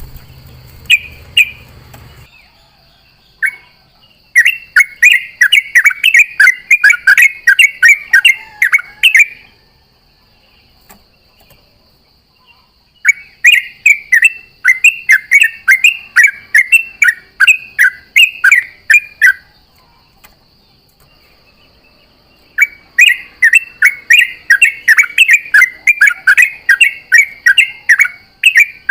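Yellow-vented bulbul (trucukan) singing its rapid 'ropel' song: three long runs of quick, bubbling chirped phrases, each lasting several seconds with short pauses between. A faint steady high whine sits underneath.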